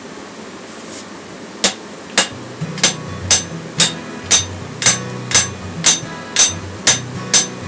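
Hand hammer striking the hot end of a coil-spring steel bar held upright on an anvil, upsetting it: about a dozen even blows, roughly two a second, each with a short metallic ring, starting a couple of seconds in.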